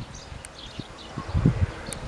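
Outdoor ambience: faint birds chirping, with irregular low rumbles of wind on the microphone that grow stronger in the second half.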